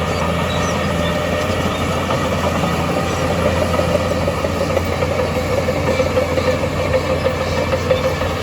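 Heavy diesel earthmoving machinery running steadily, with a wavering higher note that grows stronger from about three seconds in.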